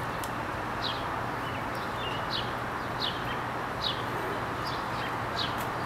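A bird chirping over and over, short falling chirps about every three quarters of a second, over a steady background hiss and low hum.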